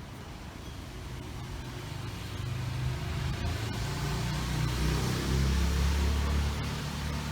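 A car passing on the road. Its engine and tyre noise grow louder toward about five seconds in, then ease slightly near the end.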